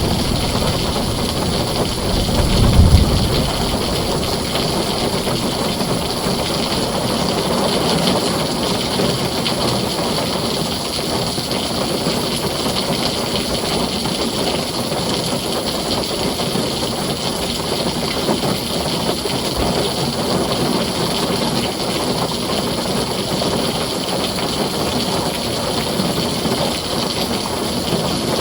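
Heavy rain falling on a tin roof as a steady, dense hiss, with a low rumble of thunder swelling about two to three seconds in.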